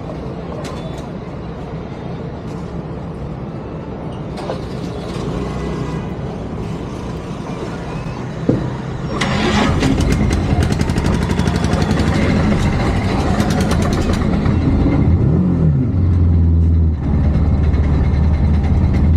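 Motorcycle engine at a petrol pump: steady low engine and traffic noise, then about nine seconds in an engine starts and runs louder, its pitch rising briefly once.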